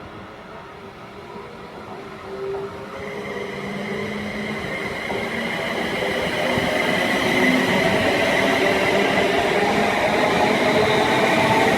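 A train approaching, growing steadily louder, with a high steady hum building from about three seconds in.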